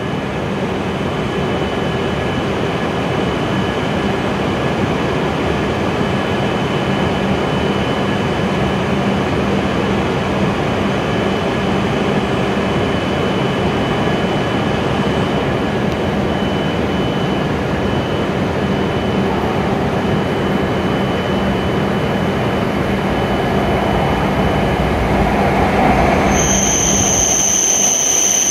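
E7 series shinkansen pulling into a covered station platform: a steady rumble that slowly grows louder as the train approaches. About two seconds before the end, a high, steady squeal sets in as the cars slide past the platform.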